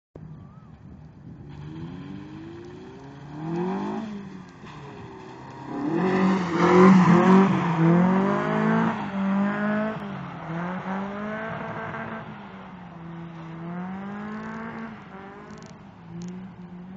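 Nissan SR20DE four-cylinder engine in a KE70 Corolla drift car, revving up and down over and over, loudest about six to nine seconds in.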